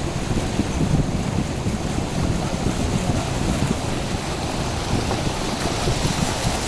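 A car driving through standing floodwater: a steady rush and splash of water around the wheels and body, with a low rumble.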